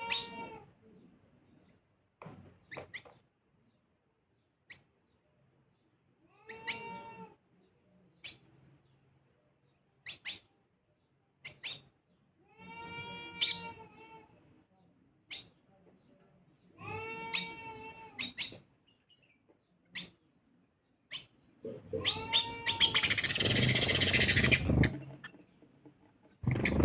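An animal gives a drawn-out call about every four to five seconds, with short sharp chirps between the calls. Near the end comes one louder, harsher call of about three seconds.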